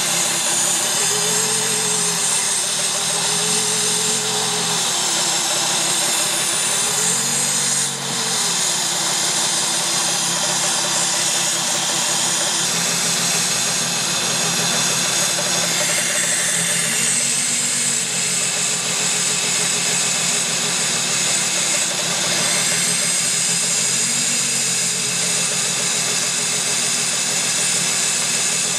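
Fourth-generation Nissan Maxima's 3.0-litre V6 running at idle, a tone in its hum rising and falling every few seconds over a steady hiss, as Sea Foam is fed into its intake.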